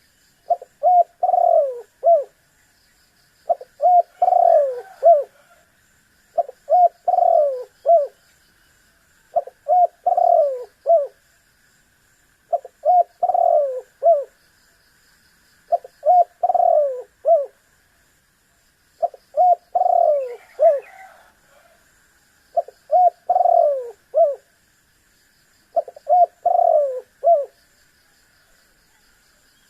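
Spotted dove (tekukur) cooing: the same short phrase of a few coo notes, the last one falling, repeated about every three seconds, around ten times.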